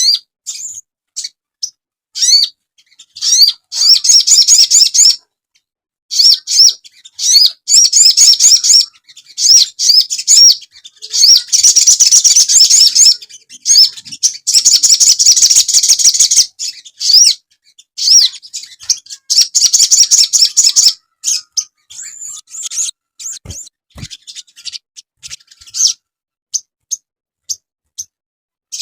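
Song of the sogon bird as used for luring and training: bursts of fast, high, rising chirps and trills repeated in phrases of one to two seconds with short gaps. The song grows densest about halfway through and thins to scattered single chirps near the end. Two brief low knocks come about two-thirds of the way in.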